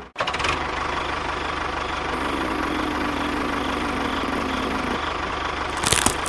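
Vehicle engine idling steadily with an even rumble. Near the end a few sharp clatters cut in.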